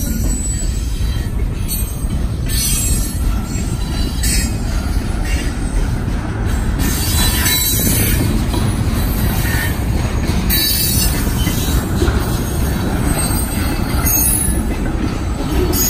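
Freight cars rolling past on the rails: a steady low rumble of steel wheels, with brief high-pitched wheel screeches every second or two.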